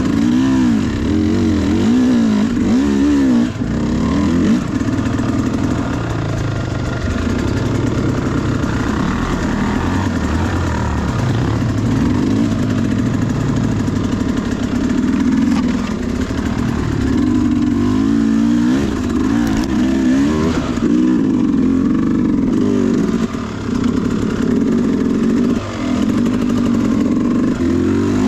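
Sherco SE300 two-stroke dirt bike engine revving up and down with constant throttle changes, its pitch rising and falling every second or so, with a couple of brief dips in the revs near the end.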